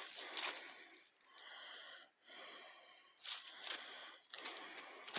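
A hiker's footsteps crunching irregularly through dry leaf litter, with a long breath out and back in about halfway through.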